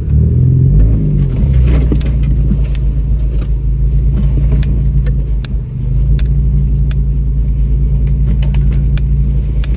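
Off-road truck's engine running steadily at low speed while crawling over steep ruts, with many sharp clicks and rattles from the body and suspension. The engine sound dips briefly about five and a half seconds in, then picks up again.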